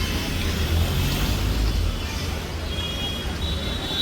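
Steady city street traffic: engines and tyres making a continuous low rumble, with a faint high tone coming in near the end.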